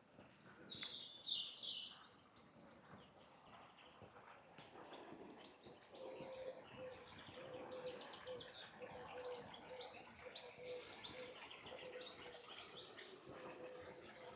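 Faint songbirds chirping and trilling, with quick high notes that grow busier about five seconds in. A faint steady pulsing drone runs underneath from about six seconds in.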